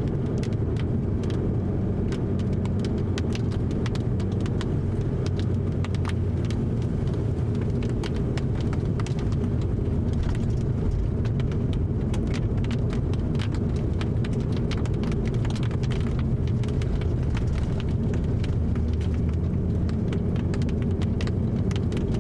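Car driving at a steady speed, heard from inside the cabin: a continuous low road and engine rumble with scattered light ticks on top.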